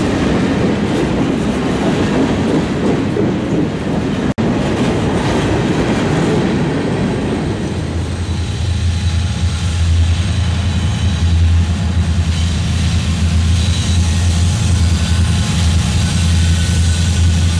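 Freight train's covered hopper cars rolling past close by, a loud steady rumble of wheels on rail. About eight seconds in, the sound changes to the steady low hum of a diesel-electric freight locomotive approaching at a distance.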